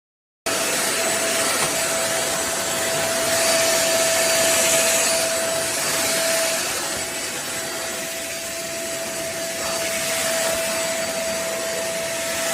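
Deerma DX700S handheld cyclone vacuum cleaner running: a steady rushing noise with a steady whine over it, swelling and easing slightly in level. It cuts in abruptly about half a second in and cuts off abruptly at the end.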